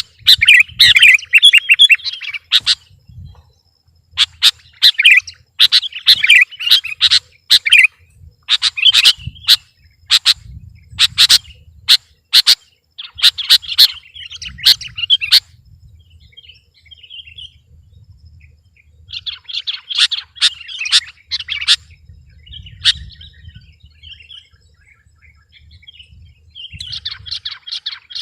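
Sooty-headed bulbul (kutilang) singing in bursts of rapid, sharp chirping phrases with short pauses between them, quieter for several seconds in the middle. This is 'gacor' song, the bird in full, continuous voice.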